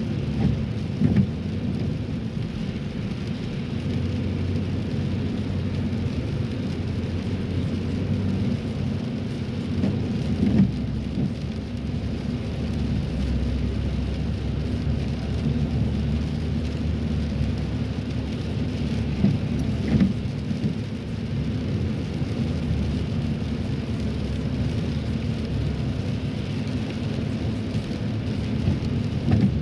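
Steady low rumble of a car driving on wet roads in the rain, heard from inside the cabin, with a faint hiss of tyres and rain over it. A few brief knocks come through now and then.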